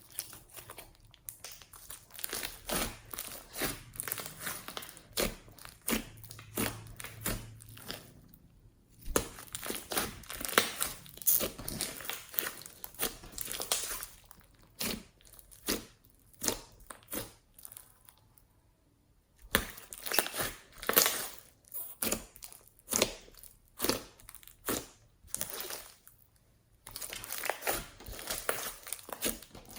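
Slime being squished and stretched by hand, giving a rapid run of wet clicks, pops and crackles. It pauses briefly twice.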